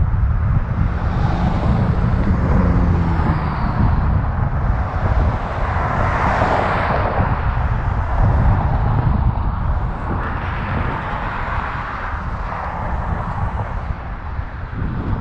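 Wind buffeting an action camera's microphone while riding a bicycle, a steady low rumble, with louder rushing swells about six seconds in and again around ten to thirteen seconds.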